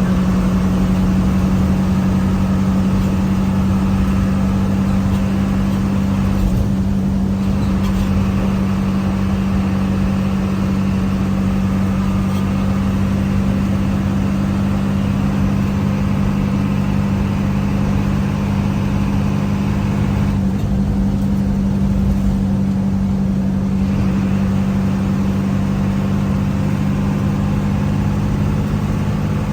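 Steady engine drone and road noise of a moving vehicle. The hiss over it thins out briefly twice.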